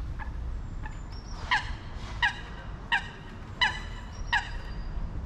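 A bird calling five times in an even series, short pitched notes about two-thirds of a second apart, over a steady low rumble.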